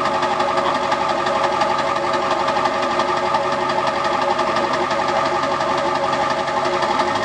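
Straight-piped 7.3 L Power Stroke turbo-diesel V8 running at a steady speed through 6-inch exhaust stacks, with a fast, even pulse and no revving.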